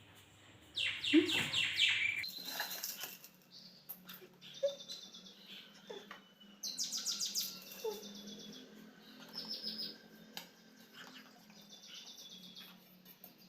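Birds chirping on and off in short runs of quickly repeated high notes, over a faint steady low hum.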